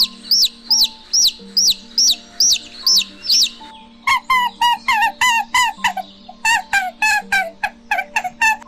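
Bird calls over soft background music: a quick series of high chirps, each falling in pitch, about two a second. About four seconds in, a faster series of lower, fuller squawking calls takes over, roughly three a second.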